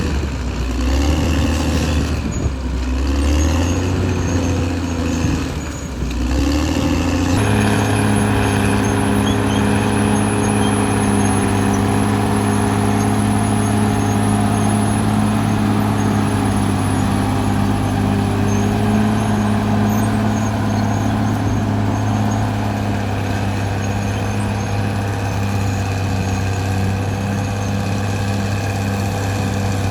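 Caterpillar D6R XL bulldozer's diesel engine working, its pitch dipping and rising with the load for the first several seconds. About seven seconds in it changes suddenly to a steady pitch, with a faint high whine over it for a while.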